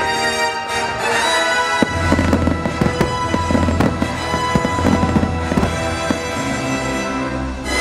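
Fireworks bursting and crackling in many quick pops, over loud show music played with the display.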